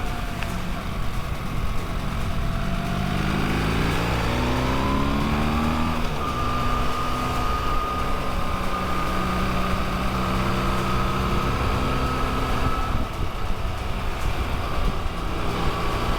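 Motorcycle engine on the move: its note climbs for a few seconds as it accelerates, then holds steady at cruising speed with a constant high whine, over a steady low wind rumble.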